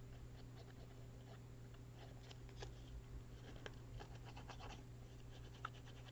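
Faint scratching, rustling and light ticks of paper being handled and pressed down while a small paper pocket is glued on, over a low steady hum.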